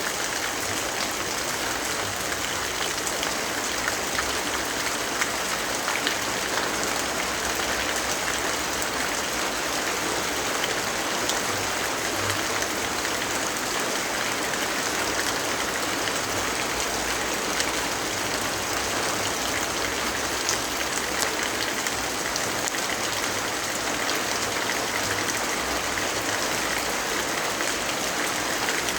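Steady rainfall hiss with a wood fire crackling in scattered small pops throughout.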